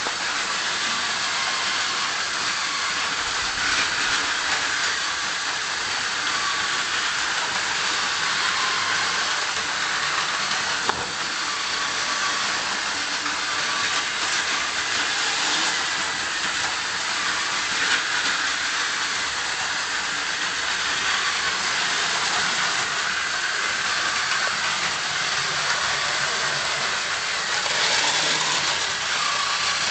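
Several battery-powered Plarail toy trains running together on plastic track: a steady whirring of small motors and gears with the rattle of plastic wheels over the track joints.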